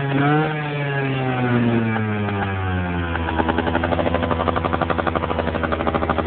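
Two-stroke 50cc scooter engine of a Yamaha Aerox with a Gianelli Extra aftermarket exhaust: a brief rev right at the start, the revs falling away over two or three seconds, then settling into a steady, pulsing idle.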